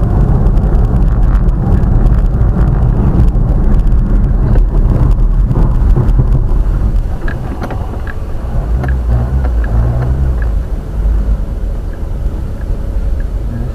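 A car driving, with a loud, low rumble of engine and road noise that eases off about halfway through.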